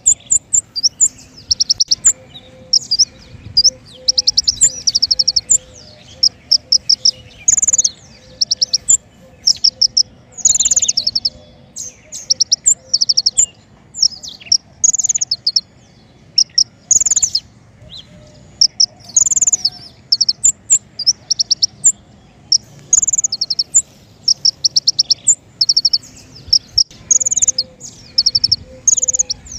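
King konin songbird singing loud, high, rapid trills and chirps in short repeated phrases about every second, some sweeping downward. This is a masteran and lure recording used to train and attract the species.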